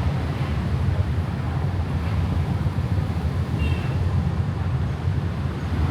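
Steady low vehicle rumble, with a brief high squeak about three and a half seconds in.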